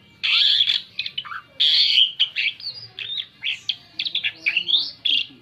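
Asian pied starling (jalak suren) singing: two loud, harsh rasping bursts in the first two seconds, then a rapid run of varied whistles and chirps that sweep up and down in pitch.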